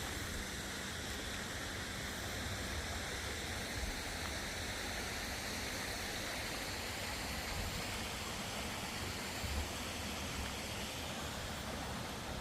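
A small brook's water running and babbling steadily, with some low rumble underneath.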